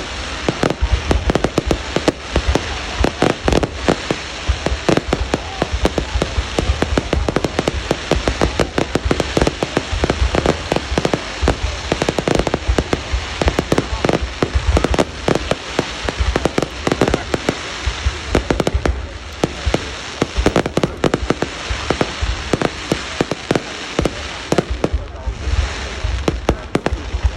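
Fireworks display going off continuously: a rapid, unbroken barrage of many sharp bangs and cracks each second over a low rumble.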